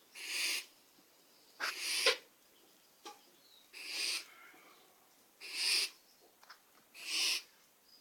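Baby barn owl hissing in repeated short breathy calls, about one every one and a half seconds, five in all.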